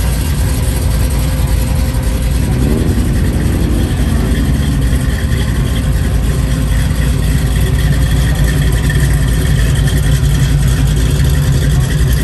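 A car engine running steadily, its pitch rising briefly about two and a half seconds in as it revs.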